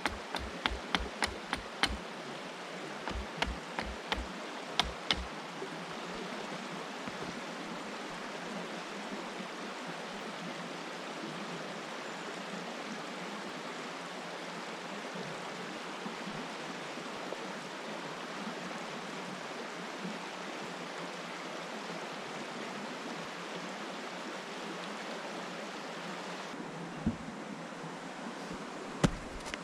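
Steady rush of a flowing river. In the first five seconds there are two quick runs of sharp knocks, several a second, and there are a couple of single knocks near the end.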